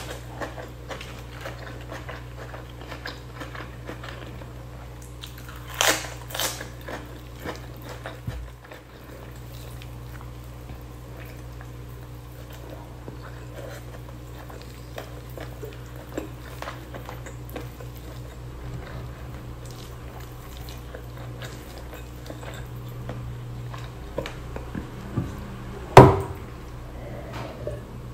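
Close-miked eating sounds: a person chewing and biting spicy chicken with rice eaten by hand, with small wet clicks and crunches over a steady low hum. A couple of sharper clicks come about six seconds in, and a single loud knock comes near the end.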